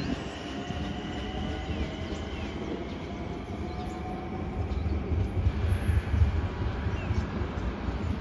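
Long Island Rail Road electric multiple-unit train pulling away along the tracks, with faint slowly rising motor whine over the rumble of its wheels. A low rumble swells in the second half.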